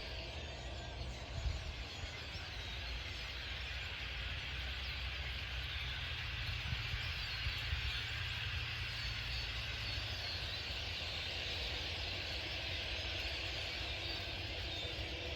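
Many small birds calling at once in a continuous chorus of chirps, over a steady low rumble.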